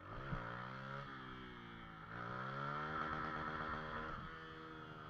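Motorcycle engine accelerating, its pitch climbing at the start and climbing again about two seconds in.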